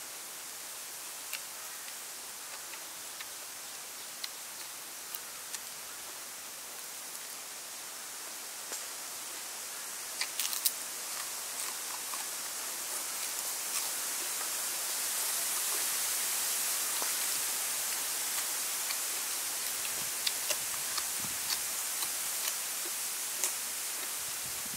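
Crunching and chewing of crispy deep-fried water snake, heard as scattered sharp clicks with the loudest cluster about ten seconds in, over a steady hiss that grows louder in the middle.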